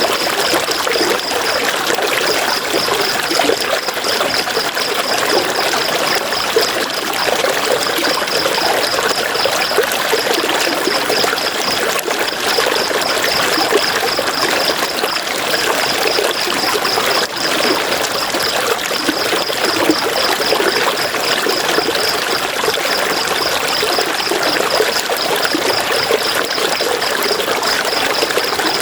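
River water flowing in a steady, even rush. A high, rapid pulsing chirp repeats in long runs with short breaks over the water.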